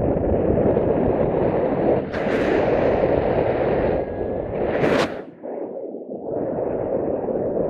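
Wind buffeting a microphone: a loud, uneven rushing rumble that fades away and comes back, with a brief sharper rush about five seconds in.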